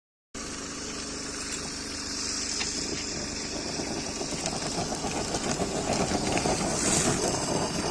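Steady hissing and rumbling of fire during thermit welding of a rail joint, with crackling that grows louder from about halfway.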